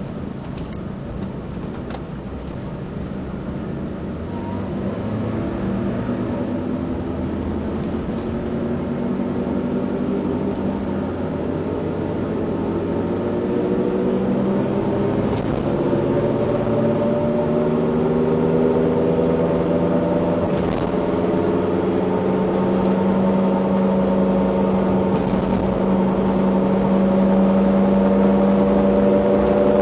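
Car engine noise while accelerating: a pitched hum that rises slowly and steadily in pitch and grows louder.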